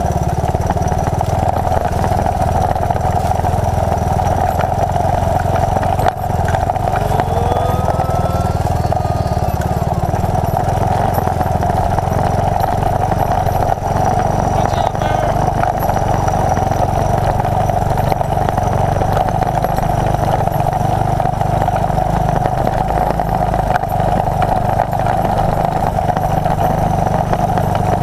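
1981 Honda XL185's single-cylinder four-stroke engine running steadily at an even speed.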